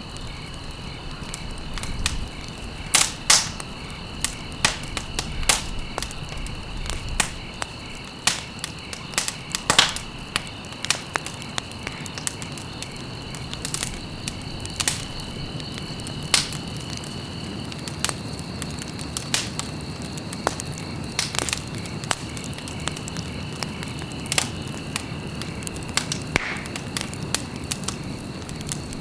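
Wood fire burning in a fireplace, crackling with irregular sharp pops of varying loudness over a steady low hiss of the flames.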